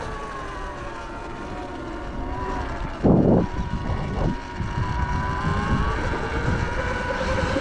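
Sur Ron electric dirt bike's motor whining while riding, the pitch sagging and climbing again with speed, over wind buffeting the microphone. A brief loud rush of wind noise about three seconds in.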